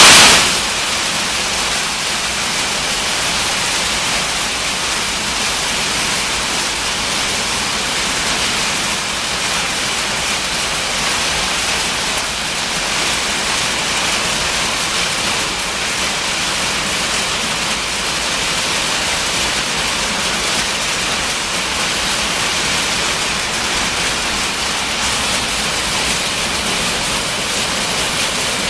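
Marble-sized hailstones drumming on a metal building's roof and walls, a dense, steady, really loud clatter with no let-up.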